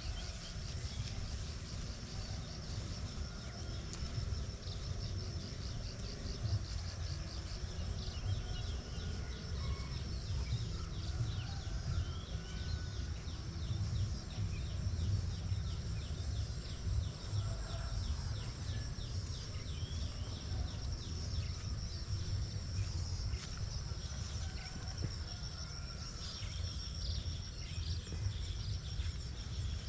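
Birds chirping and calling over a steady high insect trill in rice paddies, with a low, uneven rumble on the microphone underneath.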